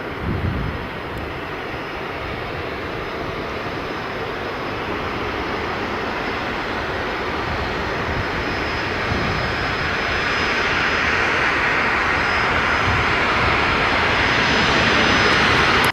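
Jet engines of a departing Boeing 747-8F freighter running at takeoff power, a steady roar that grows louder as the aircraft comes closer, with a thin high whine over it.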